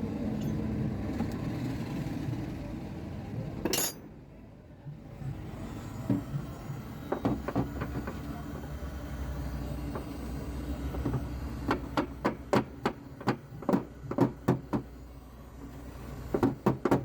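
Light, quick taps of a dent-repair hammer or tap-down tool on a car door's sheet-metal panel, knocking down a dent. The taps come in short runs of about three to four a second. A steady low rumble fills the first few seconds and ends at a sharp click.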